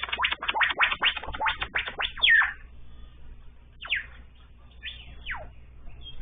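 A bird calling: a fast run of short notes for about two and a half seconds, then a few single notes that slide downward in pitch.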